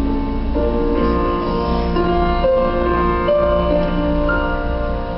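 Instrumental passage of a live band with sustained keyboard chords that change every second or so, without singing.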